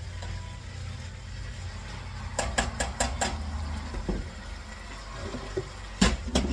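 Kitchen clatter: cookware and utensils knocking and clinking, with a quick run of clicks about two and a half seconds in and a couple of louder knocks near the end, over a steady low hum.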